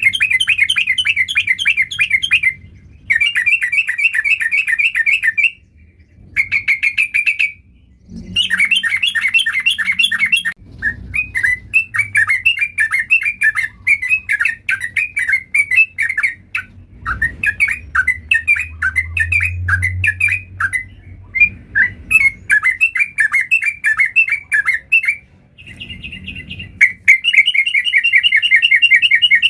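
Yellow-vented bulbul (trucukan) singing hard: rapid strings of notes in bursts of a second or two with short gaps, then running on almost without a break as a long chattering song.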